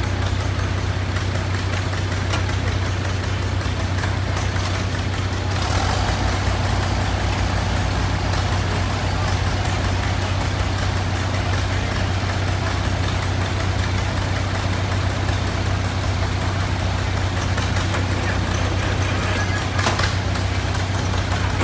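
Farm tractor engine idling steadily, a deep even hum.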